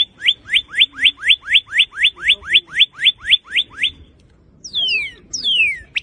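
Northern cardinal singing: a fast series of about sixteen short downslurred whistles at about four a second, then, near the end, two longer whistles sliding down from high to lower pitch.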